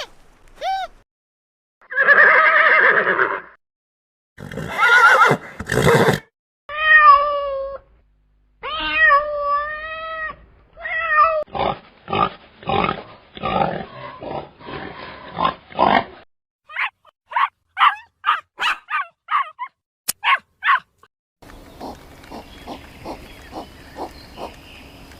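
A run of different animal calls, cut one after another with short gaps: falling cries, rough noisy calls, wavering pitched calls, then quick series of short pulses and a steady, evenly spaced pulsing near the end.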